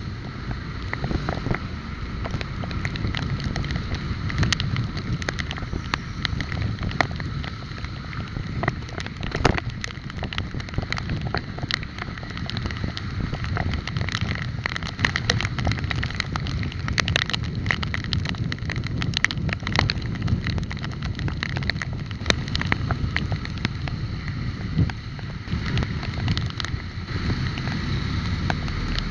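Wind buffeting the microphone of a moving bike, with steady road noise and frequent short rattling clicks from the bike over the road surface.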